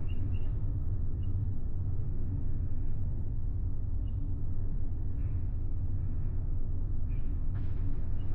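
Steady low rumble of a large ferry's engines and hull vibration under way, heard from inside a passenger cabin, with a few faint high chirps now and then.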